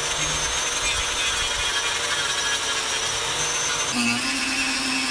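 Small electric rotary tool running under load, grinding. Its note shifts about four seconds in.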